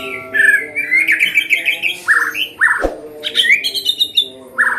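Several songbirds calling over one another, a layered birdsong mix of the kind used to train white-rumped shamas: fast chirping trills and short down-sweeping notes repeated in pairs. A single sharp knock about three seconds in.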